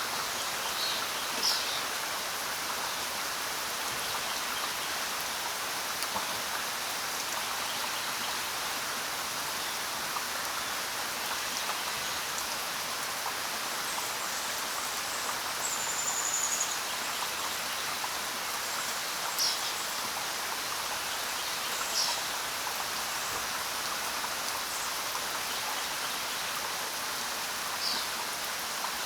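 Steady rain falling, with a few short high bird chirps scattered through it.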